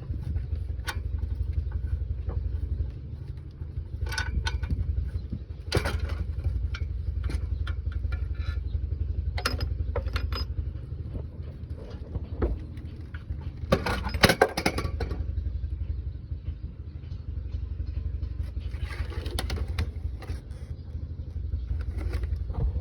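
An engine idling steadily with a low, even throb. Scattered metallic knocks and clanks sound over it, with the loudest cluster a little past halfway.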